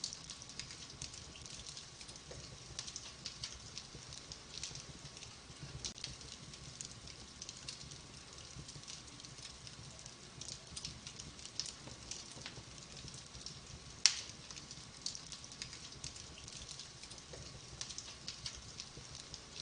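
Wood fire in a fireplace crackling steadily, with scattered small pops and one sharp, louder pop about fourteen seconds in.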